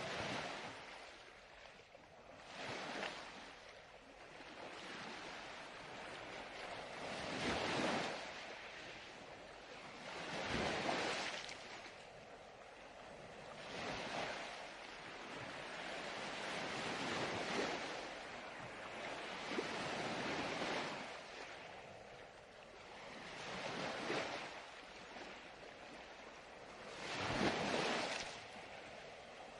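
Ocean surf: waves washing in and drawing back, the rush rising and falling every few seconds.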